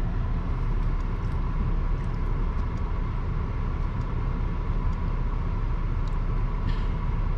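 Steady low rumble of a car engine idling, with a faint steady whine above it.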